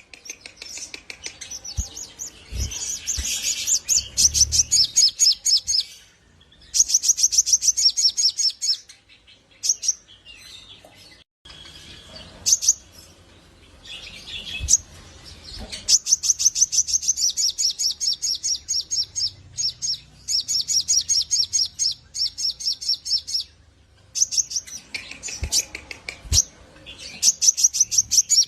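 A sogok ontong (sogon) singing: fast, high-pitched runs of chirping notes in phrases several seconds long, broken by short pauses. There are a few low thumps among the phrases.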